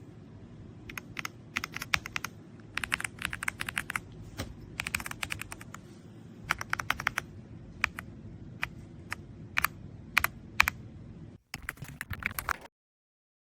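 Typing on an AULA F99 mechanical keyboard: runs of fast keystrokes alternating with scattered single key presses, over a low steady background hum, cutting off abruptly near the end.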